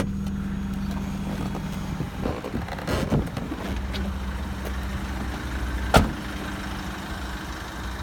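Vauxhall Movano's 2.3-litre diesel engine idling with a steady low hum. One sharp knock about six seconds in.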